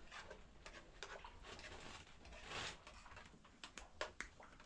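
Faint clinks and taps of cooking utensils against pots, with a brief soft hiss about halfway through and a few sharper clicks near the end.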